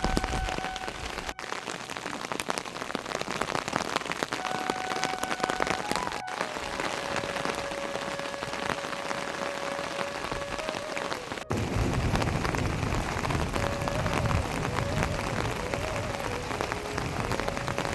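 Steady rain falling on surfaces: a dense hiss full of small drop hits, which grows fuller and deeper about two-thirds of the way through. Faint held tones sit underneath.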